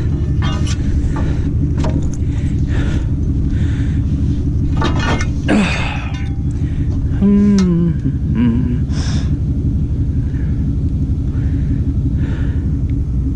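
Truck engine idling steadily, with a few metallic clanks and rattles around five seconds in and a brief higher pitched, wavering sound a couple of seconds later.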